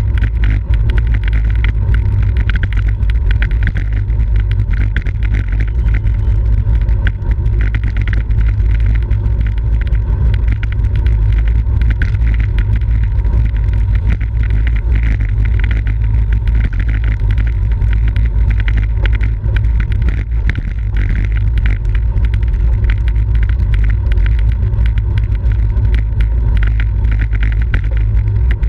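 Steady, loud wind rumble buffeting the microphone of a camera riding along on a racing bicycle, with faint ticking and road noise underneath.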